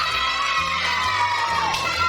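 A group of children singing loudly together over music, holding one long, slightly falling note before moving to the next.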